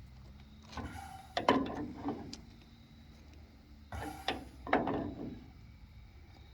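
Threaded metal pipe fittings being tightened: clicking and scraping metal in two spells, about a second in and again about four seconds in.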